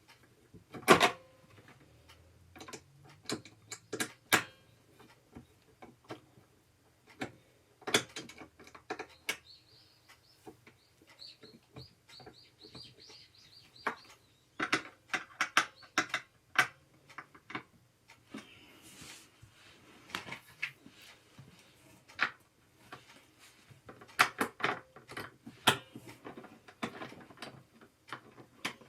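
Irregular clicks and knocks of gaming chair parts and tools being handled during assembly, with a run of rapid high ticks lasting a few seconds about ten seconds in.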